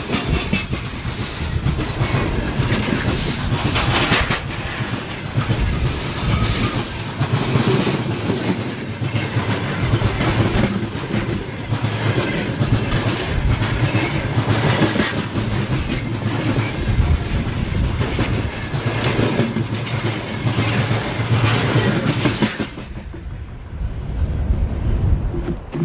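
Freight train wagons rolling past, wheels clicking over the rail joints in an uneven clickety-clack. About 23 s in the train noise suddenly falls away as the end of the train passes, leaving wind on the microphone.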